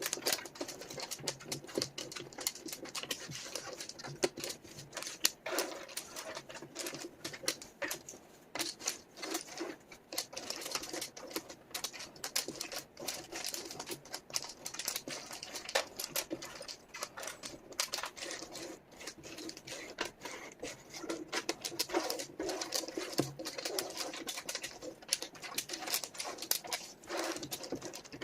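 Rapid, continuous clicking and clattering of small wooden jigsaw puzzle pieces being picked up, shuffled and set down on a table, sped up by the time lapse.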